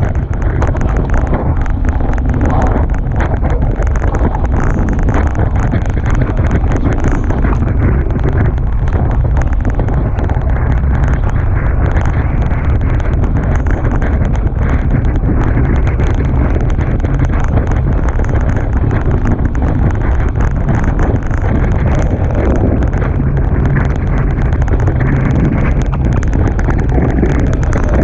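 Strong wind buffeting the microphone, a steady loud rumble, mixed with the rush of water past a Hobie Tiger catamaran sailing fast in strong wind.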